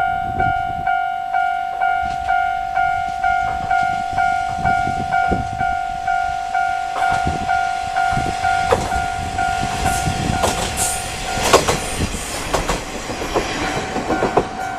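A level-crossing warning bell ringing in an even, pulsing ding about two and a half strikes a second, while a KiHa 52 diesel railcar with DMH17H engines approaches and runs past. As it passes, its wheels clatter over the rail joints in a quick run of knocks.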